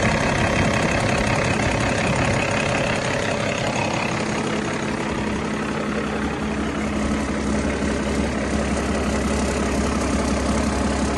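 2008 Cummins ISX inline-six truck diesel engine running steadily on a test run. About halfway through, its sound settles into a steadier, deeper tone.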